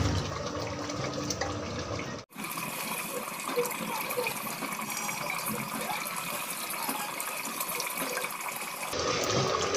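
Tripe masala sizzling as it is fried in an open pressure cooker and stirred with a spatula, a steady hiss. The sound cuts out for an instant about two seconds in.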